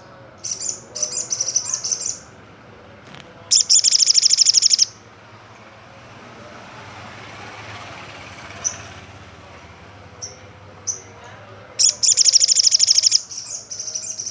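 Olive-backed sunbird song: fast, high-pitched trilled phrases, loudest about four seconds in and again about twelve seconds in, with a few single short chips between them.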